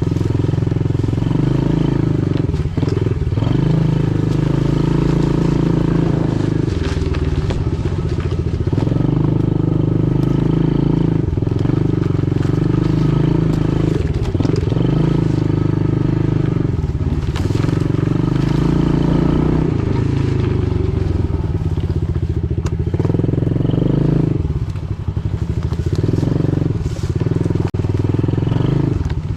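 Pit bike's small single-cylinder engine running under way, revving up and easing off every few seconds as the throttle and gears change.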